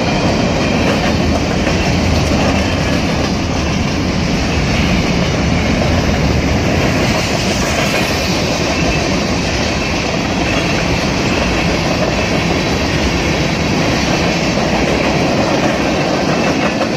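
Freight train of covered hopper cars and tank cars rolling past close by, steel wheels running on the rails with a steady, loud sound.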